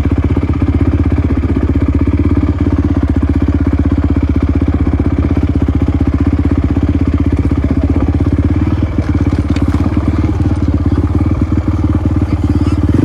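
Dirt bike engine running steadily at low revs close by, with evenly spaced firing pulses and no change in pitch.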